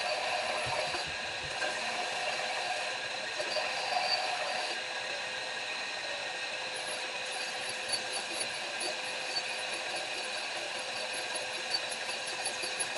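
Electric grinder running steadily with a held whine while the tip of a hand-forged steel ball punch is ground round. A few small sharp ticks come in the second half.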